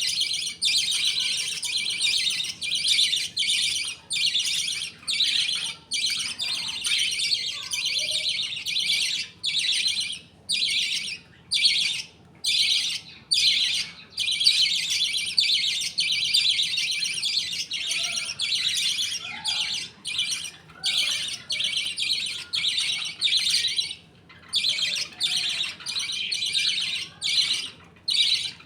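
A flock of budgies chirping and chattering in dense, high-pitched bursts broken by brief pauses.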